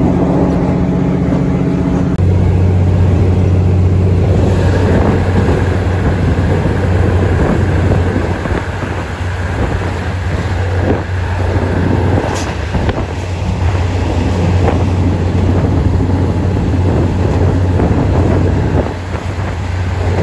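Loud running noise of a diesel-hauled passenger train heard from inside a carriage: a steady low drone with rattling over it. The drone drops to a deeper, stronger hum about two seconds in, and there are a few faint knocks.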